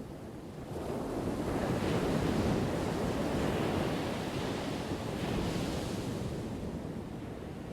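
Ocean waves crashing: a wave swells about a second in, breaks, and its wash slowly fades away over the next few seconds.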